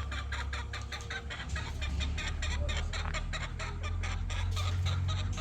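A rapid, even run of short clicking strokes, about seven a second, over a steady low hum.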